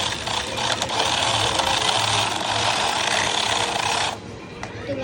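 Small electric motor and gears of a toy 1:24-scale RC drift car running, a dense buzzing whine that cuts off abruptly about four seconds in.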